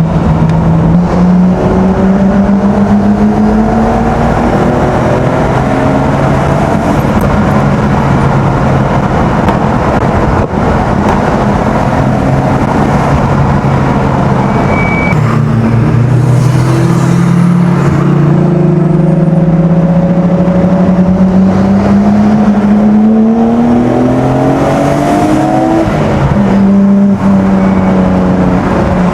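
Nissan Skyline straight-six engine accelerating hard under load, its pitch climbing steadily through long pulls. The pitch drops at a gear change about halfway through and again near the end.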